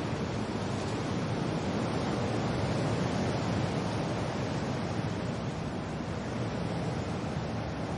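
Steady wind and rain: a dense, even rushing noise with no distinct drops or gusts standing out, swelling slightly a few seconds in.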